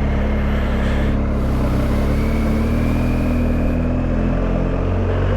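Motorcycle engine running at low town speed under a steady haze of road noise, its pitch shifting slightly about four seconds in.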